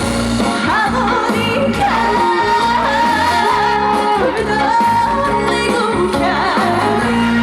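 Female singer singing a song live over an amplified backing track with a steady bass line, holding one long wavering note from about two seconds in.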